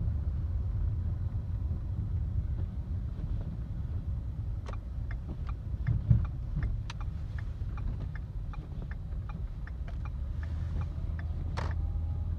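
Steady low rumble of a car driving on a snow-covered road, heard inside the cabin, with tyre and road noise from Michelin CrossClimate 2 tyres. From about five seconds in a run of light, evenly spaced ticks, a few a second, with one low thump about six seconds in.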